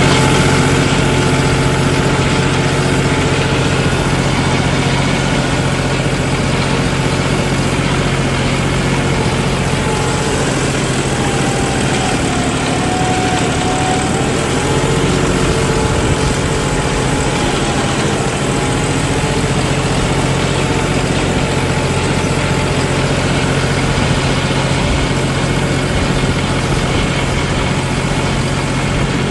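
John Deere 5310 tractor's common-rail diesel engine running steadily under load while pulling a 13-tine cultivator in C2 gear.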